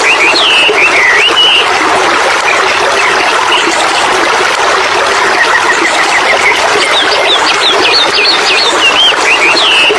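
Steady rushing water with a bird singing over it: a phrase of quick chirps near the start, a soft trill in the middle, and the same chirping phrase again near the end.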